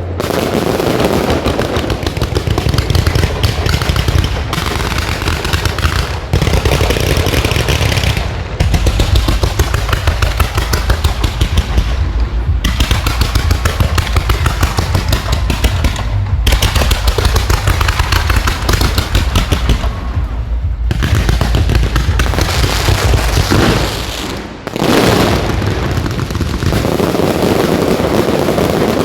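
Fireworks display going off in rapid, dense volleys of bangs and crackling over a deep rumble, with a few short lulls.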